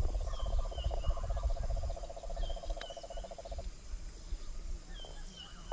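Wild animal calling with a rapid, even trill that stops about three and a half seconds in, while short high chirps repeat every second or two; low rumble fades out over the first two seconds.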